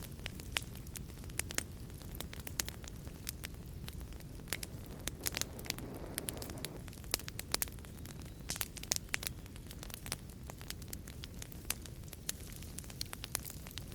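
Wood fire crackling, with frequent sharp pops and snaps over a low steady rumble of flames. A soft rushing swell of the flames comes about halfway through.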